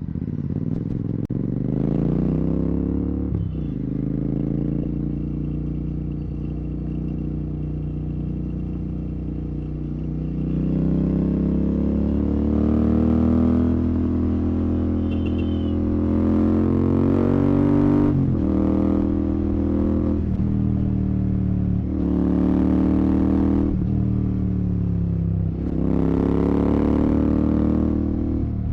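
Royal Enfield Continental GT 650's 648 cc parallel-twin engine through a Red Rooster aftermarket exhaust run without its dB killer, pulling under throttle. The revs climb several times, each climb cut by a brief dip as the rider shifts up, with a steadier stretch in between.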